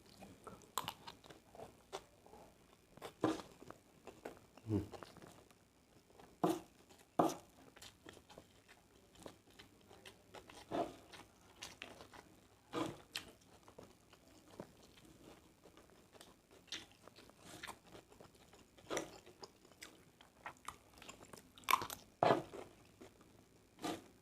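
A person eating fried rice close to the microphone: chewing and mouth noises, with short sharp clicks every second or two.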